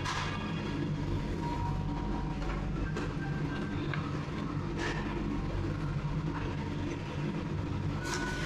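Steady low mechanical rumble and hum of revolving-sushi restaurant machinery, with a few short sharp clicks or clinks, about three, five and eight seconds in.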